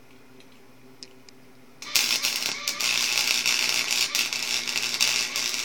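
Electric arc welder striking an arc about two seconds in and then crackling and spitting steadily while welding a lawnmower differential's spider gears solid.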